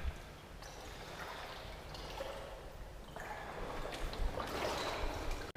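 Water sloshing and splashing as people wade through floodwater, the splashing busier in the second half.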